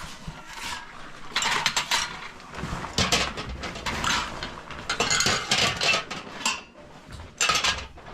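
Dishes and utensils clattering in about five short bursts of rattling and clinking.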